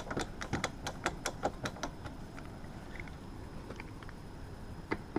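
Light irregular clicks and taps of hands working at a sheet-metal heater register. They come thick for about two seconds, then thin out to a few scattered clicks, with one sharper click near the end.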